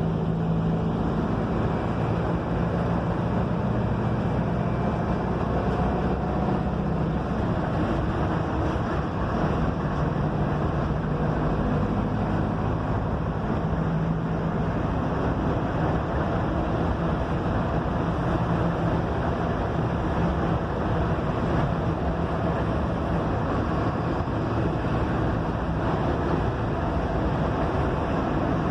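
Mercedes-Benz OF-1721 bus chassis diesel engine running under way, a steady drone that drifts up and down in pitch, over continuous road and wind noise.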